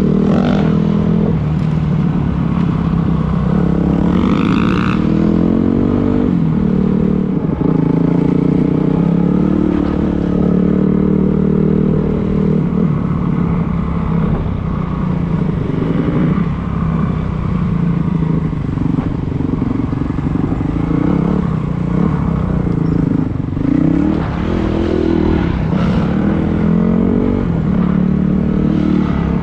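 Dirt bike engine running while being ridden, its pitch rising and falling again and again as the throttle is opened and closed.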